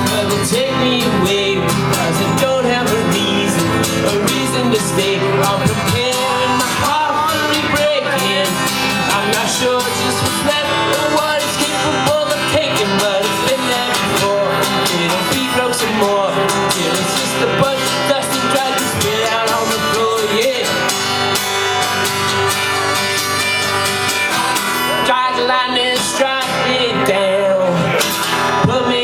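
Acoustic guitar strummed steadily under a male voice singing, a solo live acoustic performance.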